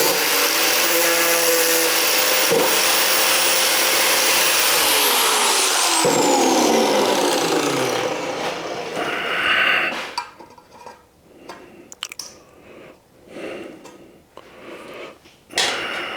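A cutoff wheel cutting slots in 16-gauge sheet steel: a loud, steady grinding whine that, about six seconds in, is let off and winds down in a falling pitch. After that come quieter knocks and handling of the metal.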